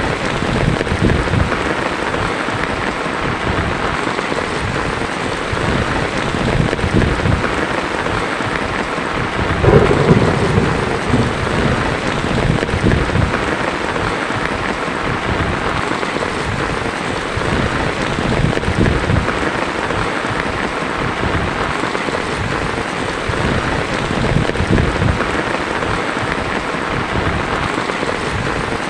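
Heavy rain pattering steadily on a tin roof, with thunder rumbling low underneath and one louder roll of thunder about ten seconds in.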